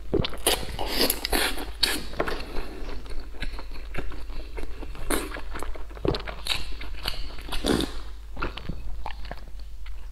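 Close-miked eating: wet chewing, smacking and mouth clicks of soft, fatty braised pork belly, in a dense run of short sounds. In the second half come sips and swallows from a glass of drink.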